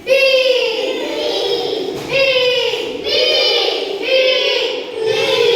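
Young children chanting together in a sing-song rhythm, one phrase about every second, as a class recitation.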